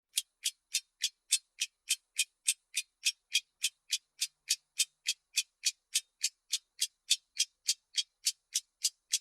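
Clock-ticking sound effect: sharp, high-pitched ticks, evenly spaced at about three and a half a second.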